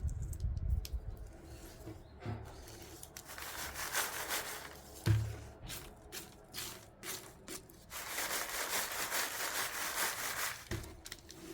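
Rustling and rubbing of things being handled, with a few soft knocks and clicks; a denser stretch of rustling comes about two-thirds of the way through.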